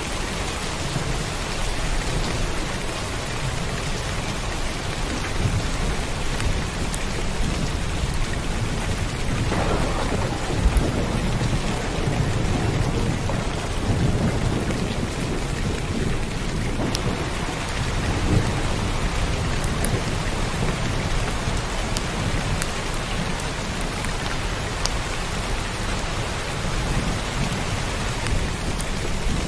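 Heavy rain falling steadily, with a low roll of thunder rumbling through the middle.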